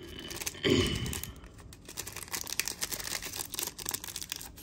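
Rustling and crinkling with many small clicks as a metal Zippo lighter is handled, with a brief louder rub or knock just under a second in.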